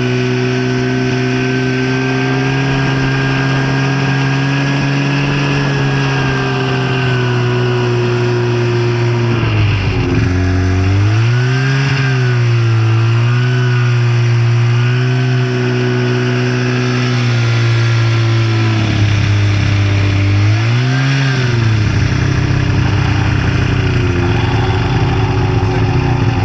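Snowmobile engine running at a steady pitch. The pitch drops and climbs again as the throttle is eased and reopened, about ten to thirteen seconds in and again briefly about twenty-one seconds in.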